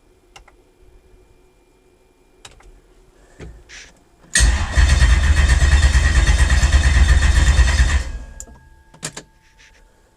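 Lexus 1UZ-FE V8 cranking on its starter motor for about three and a half seconds with an even rhythm, without catching, then stopping. This is the engine being turned over to check for a crank RPM signal on a new MegaSquirt ECU. A few light clicks come before it.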